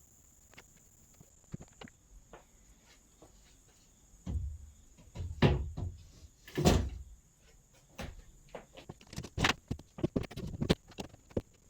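Knocks and thumps from handling wood and tools on the floor framing: scattered light clicks at first, three loud thumps in the middle, then a quicker run of knocks near the end.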